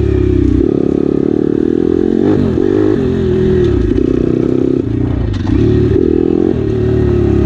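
Pit bike engine running as it rides a rough dirt track, the revs dipping and climbing back several times, with a few knocks from the bike over the bumps.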